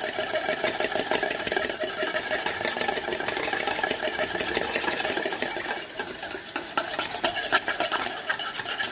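Rapid, continuous clinking and scraping of a metal spoon against a cup or pot, as in stirring or beating. It runs densely for about six seconds, then thins to scattered clicks.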